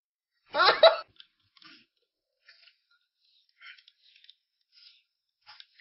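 A brief loud vocal sound about half a second in, then faint crunching and chewing of someone eating, soft crackles once or twice a second.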